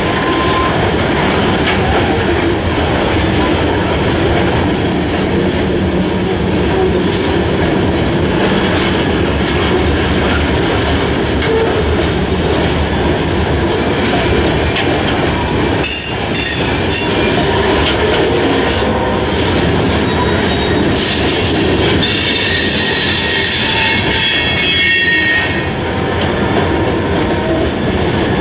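Freight train rolling past close by, with a steady, loud rumble of wheels and cars on the rails. High-pitched wheel squeal cuts in briefly about halfway through and again for several seconds near the end.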